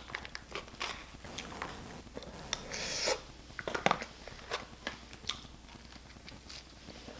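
A person chewing and eating, with many small mouth and utensil clicks and a brief scrape about three seconds in.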